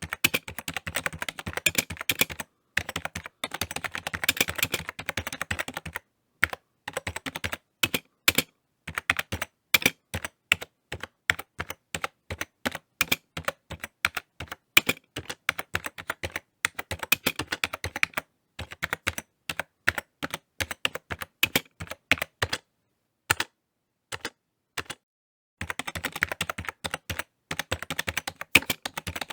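Typing on a computer keyboard: rapid runs of key clicks in bursts, broken by short pauses, with a longer pause of a couple of seconds past the middle.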